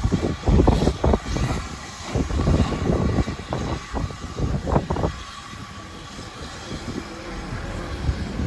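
Gusty wind buffeting the microphone in irregular low thumps, heaviest in the first five seconds and easing after, over a steady low running noise.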